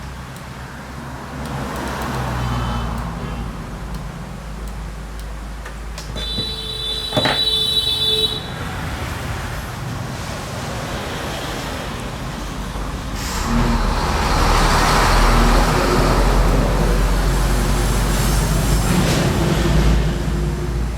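Road traffic passing with a heavy low rumble that swells and grows louder about halfway through. A high, steady tone sounds for about two seconds partway through.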